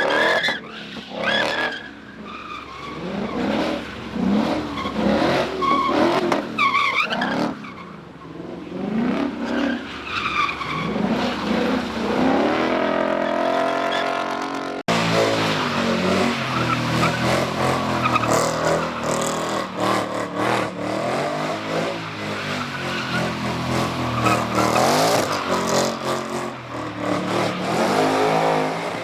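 Cars drifting: tyres squealing and skidding in long wavering screeches, with engines revving. There is an abrupt break about halfway through.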